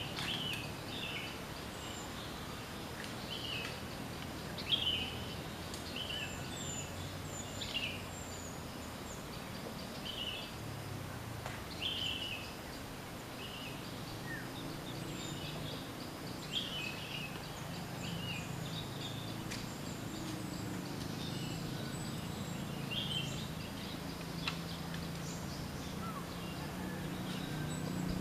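Small birds chirping in short, quick, high calls, several every second and scattered throughout, over a low steady rumble that grows a little stronger in the second half.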